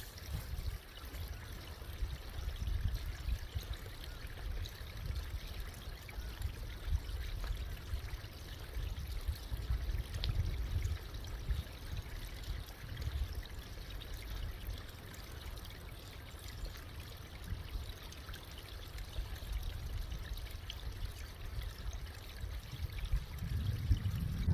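Steady rushing noise like running water, with an uneven low rumble underneath.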